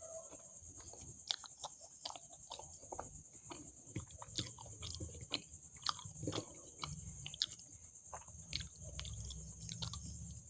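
A person chewing food close to the microphone, with wet smacking and small mouth clicks at irregular intervals.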